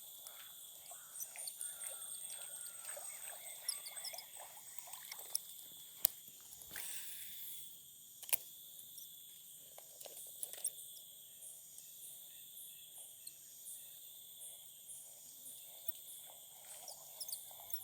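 Night-time insect chorus of crickets or cicadas, a steady high drone in several pitches, with scattered small rustles and ticks. There are two sharper clicks, about six seconds in and about eight seconds in.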